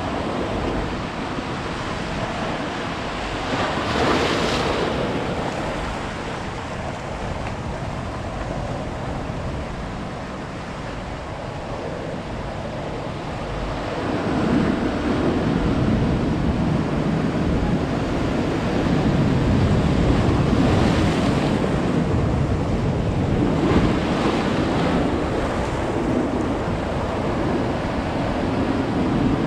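Ocean surf washing onto a beach: a steady rush of waves that grows louder about halfway through, with breakers swelling up several times.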